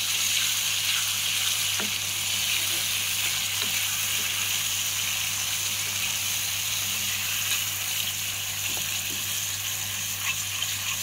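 Ground tamarind paste sizzling steadily in hot oil in an iron kadai as it is stirred with a spoon, with a few faint scrapes. It is cooking down to thicken until the oil separates out.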